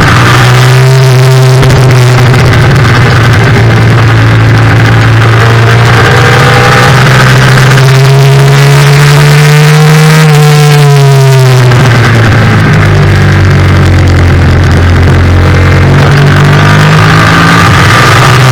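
Yamaha FZ-07 parallel-twin racing engine running hard under throttle, its pitch climbing slowly for about ten seconds, dropping as the throttle closes, then building again near the end.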